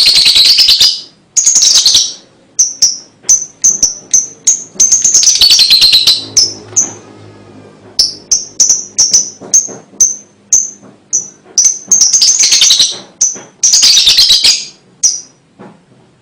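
Lovebird chattering: long, harsh, rapidly pulsed trills alternate with runs of short, sharp chirps repeated about twice a second.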